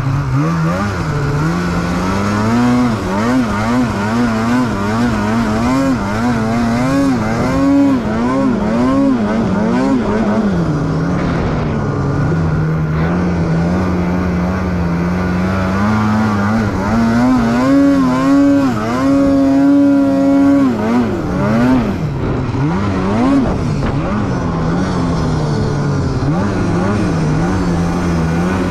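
Polaris 9R snowmobile's two-stroke engine being ridden hard, its pitch rising and falling again and again with the throttle, held high for a couple of seconds about two-thirds of the way through before dropping back.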